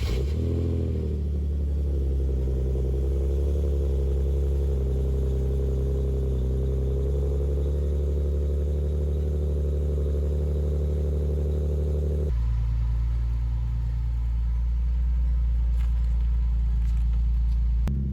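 A 2009 Nissan 370Z's 3.7-litre V6 starts, flares briefly and settles into a steady idle. About twelve seconds in, the sound turns deeper and duller.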